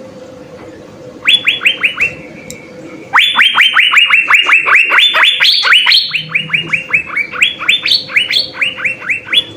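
Asian fairy-bluebird (cucak biru) singing in full song: quick repeated whistled notes, each sliding down in pitch. A short run of about five notes comes about a second in, then a long unbroken run of about seven notes a second from about three seconds in.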